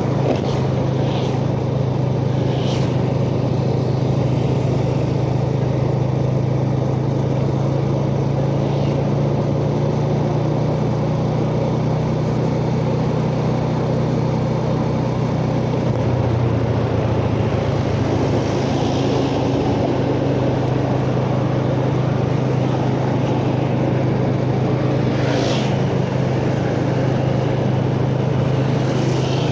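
Yamaha Jupiter Z's single-cylinder four-stroke engine running at a steady road speed, heard from the rider's chest over road and wind noise. The engine note changes slightly about halfway through.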